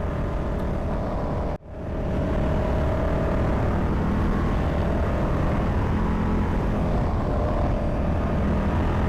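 Riding sound of a Ducati Multistrada Pikes Peak motorcycle from the rider's own mic: a steady engine drone under heavy wind noise. The sound cuts out abruptly for a moment about one and a half seconds in.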